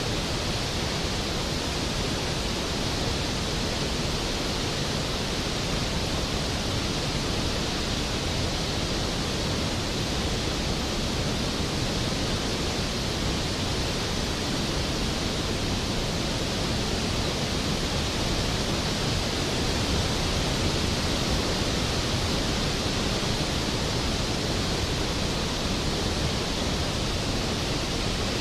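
Skógafoss waterfall: a large volume of water plunging into its pool, a steady, dense roar of white noise with no breaks.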